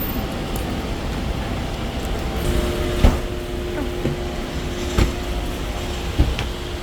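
Steady low rumble of a vehicle on the move, with a faint steady hum and three sharp knocks, about three, five and six seconds in.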